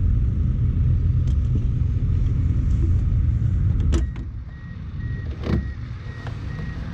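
Turbocharged 1999 Mazda Miata's engine idling with a steady low rumble, then switched off with a click about four seconds in. A rapid electronic warning beep from the car starts as the engine stops, with a knock a moment later.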